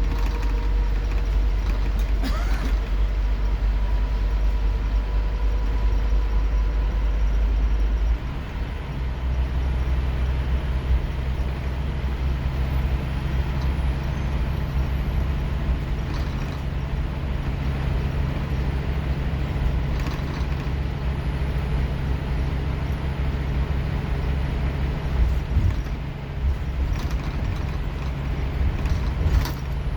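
Scania K230UB bus's five-cylinder diesel pulling under load, heard on board. About eight seconds in the note changes abruptly as the automatic gearbox kicks down, and the engine then runs on at a higher, steady pitch under hard acceleration.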